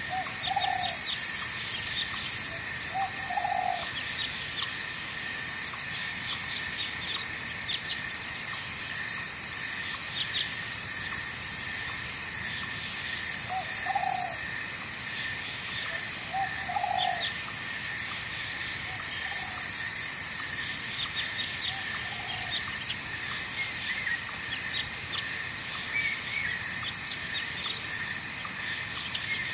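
Night forest ambience: a steady chorus of crickets and other insects, with a very high buzzing insect that starts and stops every few seconds. Short low calls from a frog or bird sound now and then, mostly in pairs, near the start and in the middle.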